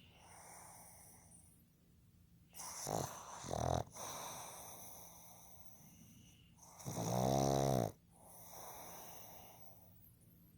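Pug snoring in its sleep: a short double snore about three seconds in and a longer loud snore about seven seconds in, each followed by a softer breathy exhale.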